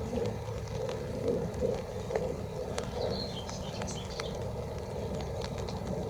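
Raindrops ticking irregularly on an umbrella over the steady low rumble of distant jet aircraft at the airfield.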